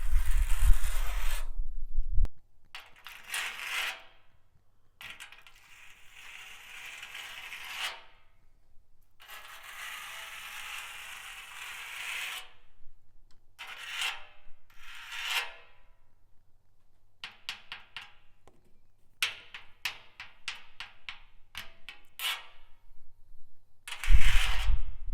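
Nails fixed to the fingertips scratching and scraping over a rusty steel drum, in several long strokes, then tapping and clicking on it, with a quick run of clicks a little after the middle. A louder deep rumble fills the first two seconds and returns near the end.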